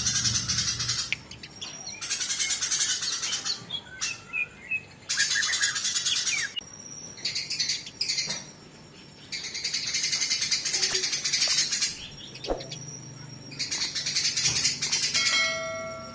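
Eurasian tree sparrows (burung gereja) fighting: bursts of dense, rapid chirping chatter, each one to two seconds long, with short gaps between. Near the end a few clear steady whistled notes come in.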